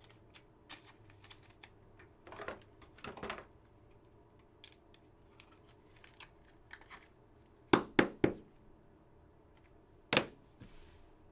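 Trading cards being handled on a table: soft slides and light taps, with three sharp clicks in quick succession about three-quarters of the way through and one more near the end.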